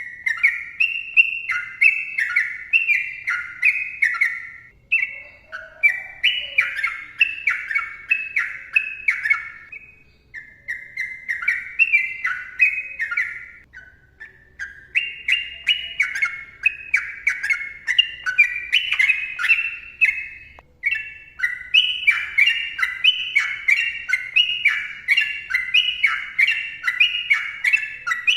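Sooty-headed bulbul (trucukan) singing long, fast runs of short bubbling whistled notes, phrase after phrase, with brief pauses between runs.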